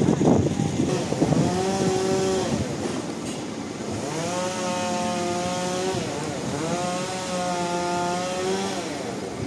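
Sawmill machinery motor running under load, its pitched whine rising, holding steady and falling back three times in a row.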